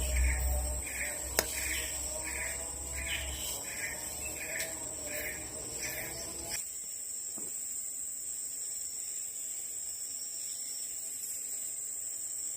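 Forest insects droning steadily at a high pitch. For the first half a call repeats about twice a second, then stops abruptly about six and a half seconds in; a single sharp click sounds about a second and a half in.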